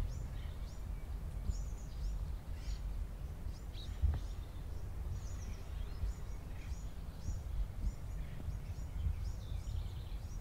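Small birds chirping: many short, high chirps several times a second, over a steady low rumble.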